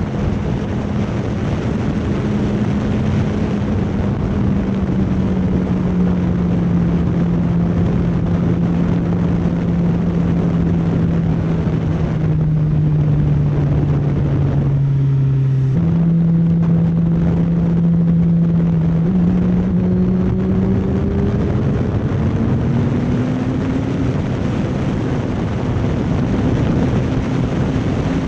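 Motorcycle engine running while riding, under heavy wind rush on the microphone. The engine note sinks slowly for the first half, changes abruptly around the middle, then climbs again over the last third as the bike speeds up.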